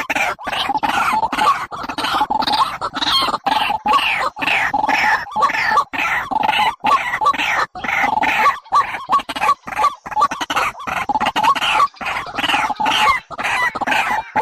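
Birds calling in a rapid run of short, repeated calls, several a second, played as a lure for trapping birds.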